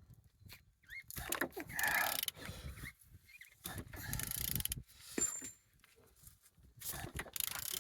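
A removed engine's crankshaft being turned over by hand with a wrench, in three spells of about a second each. The engine turns freely with compression on every cylinder.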